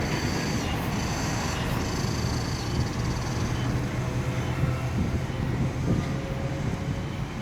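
Cicadas buzzing in short repeated pulses for the first couple of seconds, then fading, over a steady low rumble.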